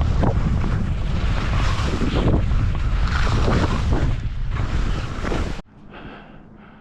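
Wind rushing over the camera microphone during a ski descent, with the swish of skis through snow. It drops off suddenly to a much quieter hiss a little over two-thirds of the way through.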